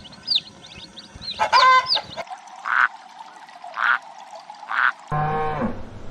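Poultry calls: high, falling chirps at first, then three harsh duck quacks about a second apart. A bleating farm animal starts calling near the end.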